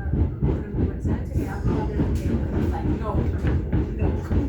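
Subway train running: a steady low rumble with wheels clattering over the rails.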